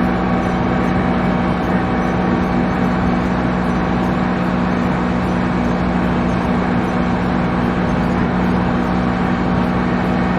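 Iseki Geas AT340 tractor's diesel engine running steadily under load while pulling a rotary harrow through a puddling pass.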